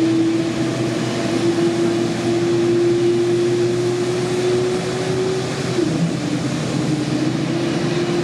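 Boeing 787-8's GEnx-1B turbofan engines running steadily, a loud rush with a held whine that rises slightly and then drops in pitch about six seconds in.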